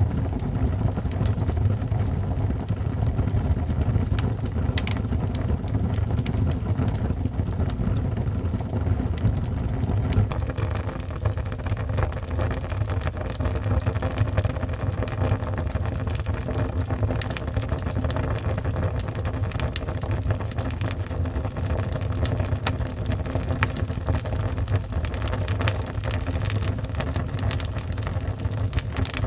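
Wood fire burning in a fireplace: a steady low rumble of flames with frequent sharp crackles and pops from the logs, which grow busier about a third of the way through.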